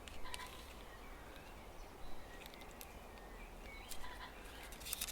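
Faint songbird singing: scattered short, thin chirps and clicks, with a denser run of clicks and trilling starting near the end.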